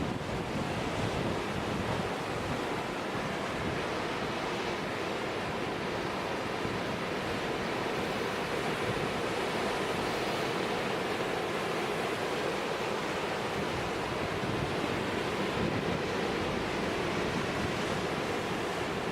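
Storm surf breaking against a jetty, a steady wash of ocean waves, with strong wind buffeting the microphone.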